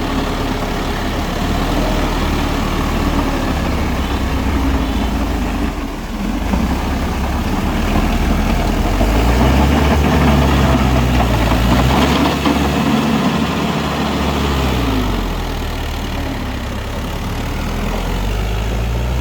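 Mahindra 4WD tractor's diesel engine running, its revs rising about halfway through, held for several seconds, then dropping back.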